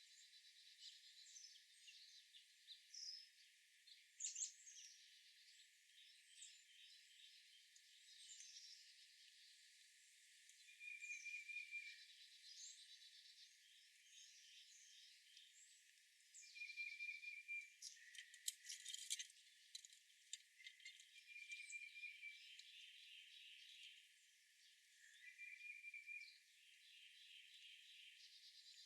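Faint chorus of several small songbirds chirping and calling, with quick sweeping notes and a short buzzy trill repeated every few seconds. A brief run of clicks sounds about two-thirds of the way through.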